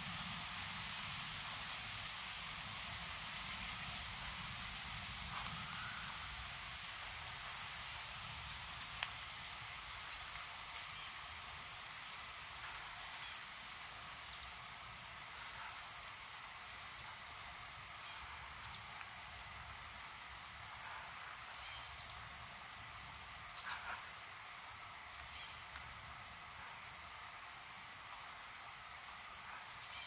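A bird giving short, very high, thin chirps, one every second or so, starting about seven seconds in, over a steady high-pitched insect hiss.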